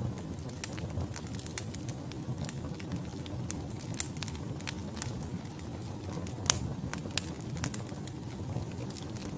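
Wood logs burning in a fireplace: irregular sharp crackles and pops over a low, steady rumble of flame, with two louder pops about two-thirds of the way in.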